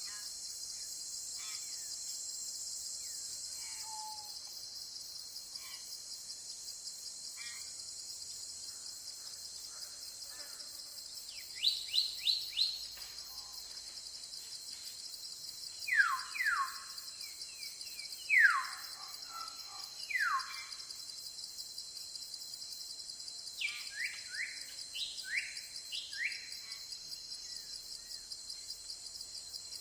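Tropical forest ambience: a steady high insect drone throughout, with birds calling over it in short falling whistled notes, a quick run of four about twelve seconds in, louder single notes around sixteen to twenty seconds, and another run of falling notes near the end.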